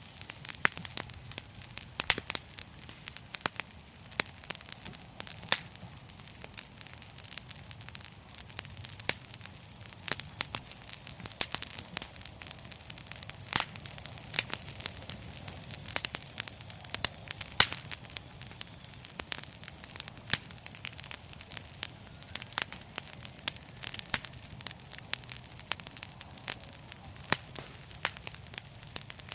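Wood fire crackling steadily: dense, irregular sharp pops and snaps over a low, even rumble of the flames.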